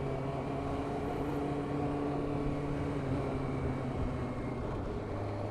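Suzuki GSX-R 600 motorcycle engine running steadily at a constant pitch, with no revving.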